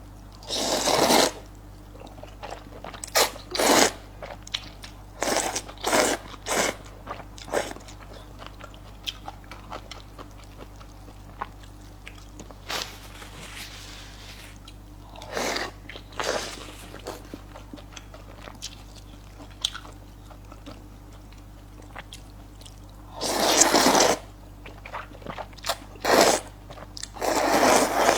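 A person eating close to the microphone: crunchy bites and chewing come in bursts, some brief and some about a second long, separated by quieter pauses of a few seconds.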